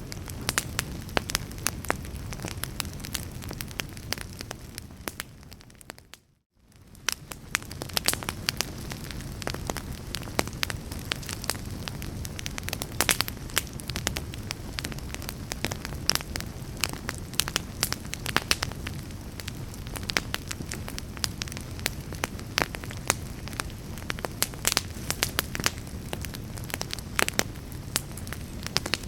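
Wood fire in a fireplace crackling, with frequent sharp pops over a steady low rumble of flames. About six seconds in, the sound fades briefly to near silence and then swells back.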